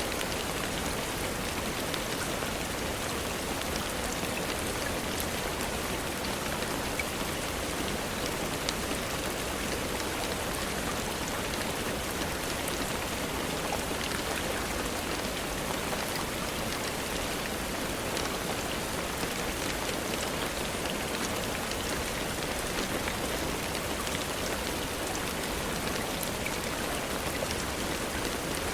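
Steady rainfall, an even hiss of rain on surfaces with scattered faint ticks of individual drops.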